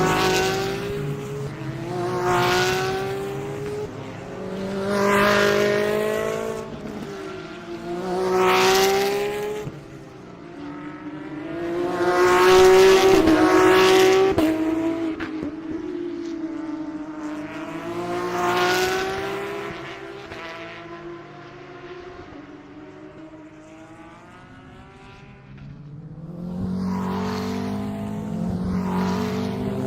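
GT3 race cars passing one after another at speed, each engine swelling up, revving through its gears and fading away. There are about seven passes, with a quieter gap a little past the middle before another car comes up near the end.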